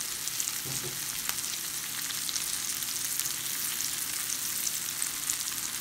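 Sliced pheasant back mushrooms and ramps sizzling steadily in oil in a cast-iron skillet, a constant crackling hiss, while a spatula stirs them. The sizzle means the mushrooms' water has cooked off and they are frying in the oil again.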